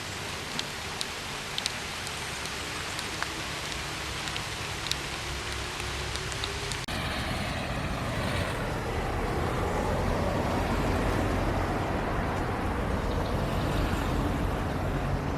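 Steady rain with sharp individual drops ticking close by. About seven seconds in it cuts abruptly to a louder, deeper rushing sound of rain.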